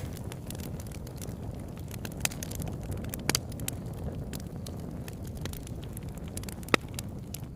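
Wood campfire burning: a steady low rumble of the flames with frequent sharp crackles and pops from the burning wood, one pop louder than the rest near the end.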